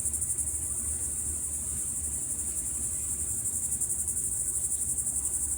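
Steady, high-pitched chorus of insects trilling with a fast, even pulse, over a low rumble.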